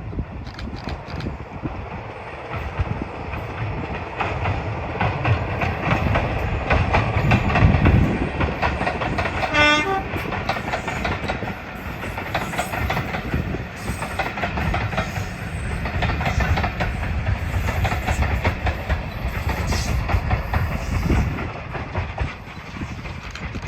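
A train running past on heritage railway track, its wheels clattering steadily over the rail joints. A brief pitched warning note sounds about ten seconds in.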